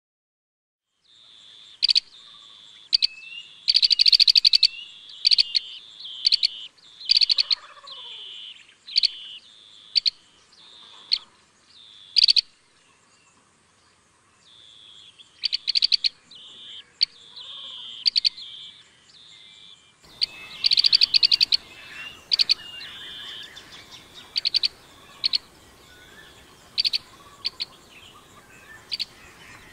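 Birds calling: repeated sharp high chirps and short rapid trills, with a brief lull about halfway through.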